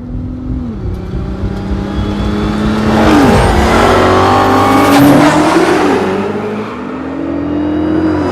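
Several car engines running at speed, overlapping, with engine pitch swooping down sharply about three seconds in and again near six seconds, like cars passing. The noise is loudest in the middle.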